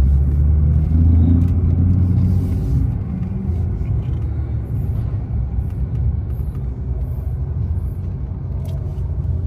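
Car engine running with a deep rumble. It is louder over the first three seconds, with a slight rise in pitch about a second in, then eases to a steadier, lower level.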